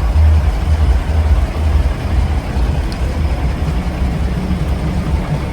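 1964 Scania-Vabis L56 truck's diesel engine running steadily with a deep, even rumble.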